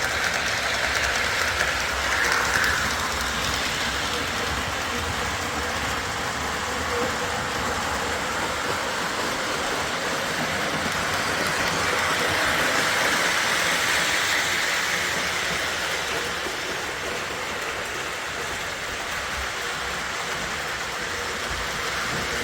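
MTH O gauge model train running on three-rail track: a steady rolling rumble and clatter of wheels on rail, swelling a little past the middle as it comes closest, then easing off.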